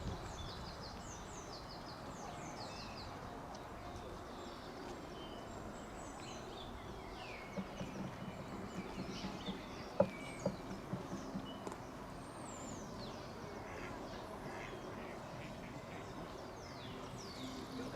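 Small birds chirping in short falling calls, with a duck quacking in a quick run of calls from about eight seconds in, and a single sharp click in the middle.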